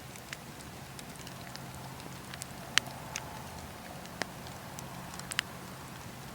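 Campfire burning: wood crackling and popping in irregular sharp snaps over a steady low rumble of the flames, with one loud pop about three seconds in and another near the end.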